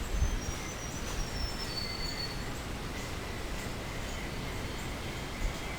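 Woodland ambience: a steady background hiss over a low rumble, with a bird's few high, thin whistles falling in pitch in the first couple of seconds and a faint, steady insect-like tone underneath.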